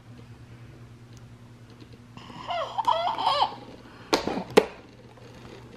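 A baby's brief vocalizing, then two sharp knocks about half a second apart, over a steady low hum.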